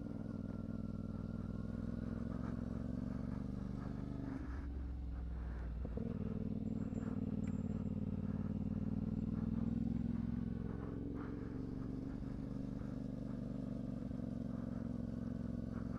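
CFMoto 450SS parallel-twin engine running at low, fairly steady revs while the motorcycle is ridden through turns, the pitch shifting slightly a few seconds in and the engine note rising a little toward about ten seconds before easing off.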